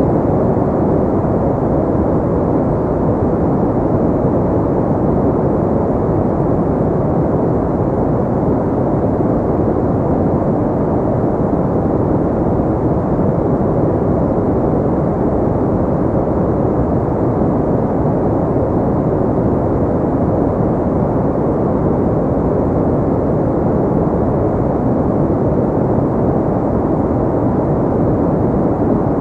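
Steady, unchanging synthetic pink noise: a deep, muffled hiss with most of its weight low down and little high end.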